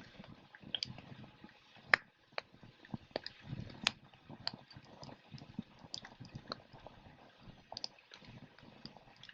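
Wood campfire crackling: irregular sharp pops and snaps of burning wood, the loudest about two seconds in, over a soft low rustle of the flames.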